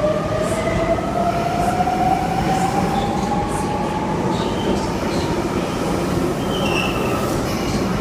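Electric passenger train pulling through a station, its motor whine rising steadily in pitch over a heavy rumble, with a few short wheel squeals.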